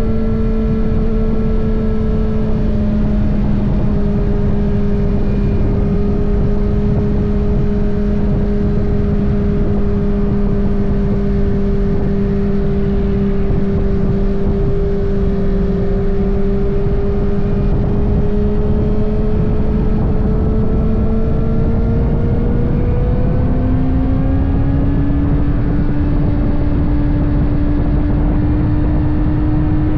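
Kawasaki ZX-6R's 636 cc inline-four engine running at steady cruising revs, its pitch sagging slightly in the middle and then rising about two-thirds through as the throttle opens, over a steady rush of wind.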